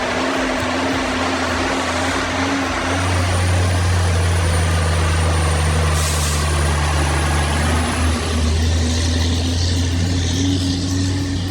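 Heavy diesel vehicle engine running steadily, growing louder about three seconds in, with a short hiss of air about six seconds in.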